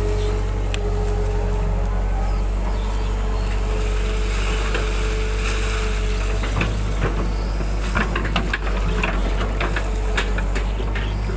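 Excavator's diesel engine running steadily, with a steady whine that fades about halfway through. A series of short knocks and clatters comes in the second half.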